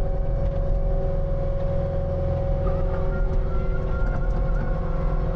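Skid steer engine running steadily while it works a power rake through gravel. A thin, higher whine joins about halfway through.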